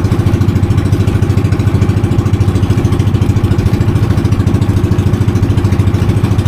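Small tour boat's engine running steadily under way, with a fast, even pulse.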